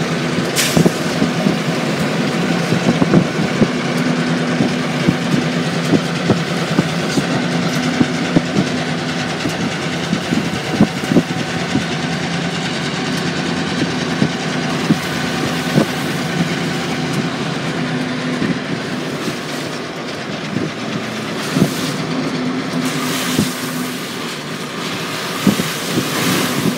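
Union Pacific diesel locomotives and their train passing, a steady engine drone with wheels clicking over rail joints at irregular intervals.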